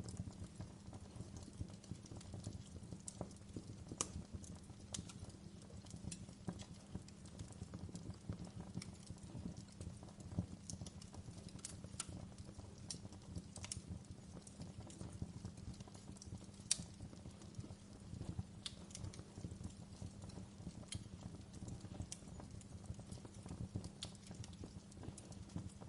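Wood fire burning in a fireplace: a low, steady rustle of flames with irregular sharp crackles and pops scattered throughout.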